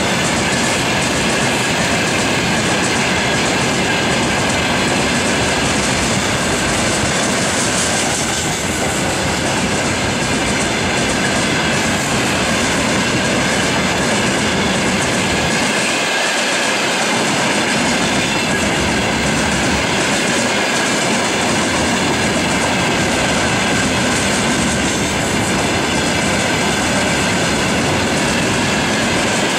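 Railway tank cars of a freight train rolling past close by: a steady loud rumble of steel wheels on rails with clickety-clack over the rail joints.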